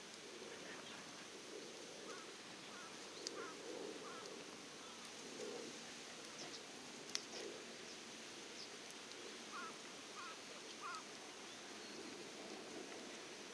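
Faint outdoor ambience of small birds chirping, with three quick chirps close together late on, and a few sharp crackles and pops from a wood campfire, the loudest about seven seconds in.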